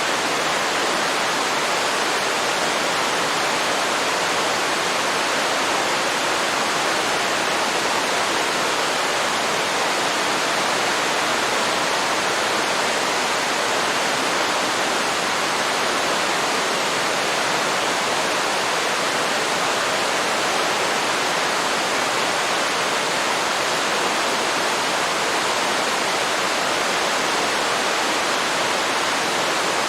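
Waterfall: water falling and splashing into a river pool in a steady, unbroken rush.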